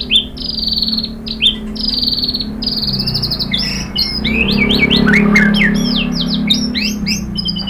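White-rumped shama (murai batu) singing: a run of repeated buzzy, trilled notes, then about halfway a fast string of varied whistled notes. A steady low hum runs underneath.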